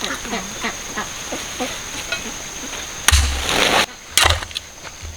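Outdoor handling noise: faint short chirps, then a loud rustling crash with a heavy thud about three seconds in, and another thud about a second later.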